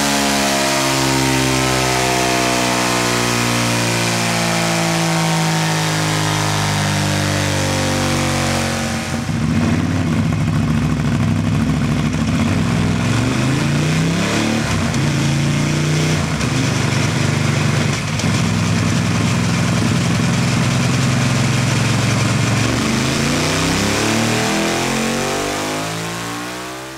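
Ducati 1098S's V-twin engine running, its pitch sliding slowly at first. About nine seconds in it revs up and down repeatedly, then the sound fades out at the end.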